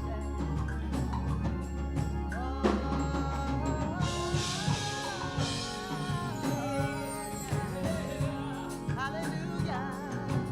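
Live gospel worship music from a church praise band: a drum kit keeps time under pitched melody lines, with singing.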